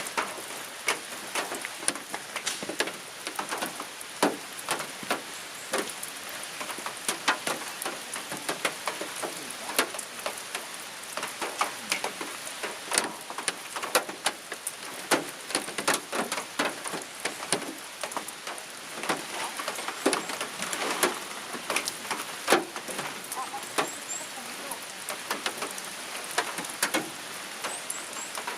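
Steady rain, with many drops tapping irregularly and sharply over a soft hiss.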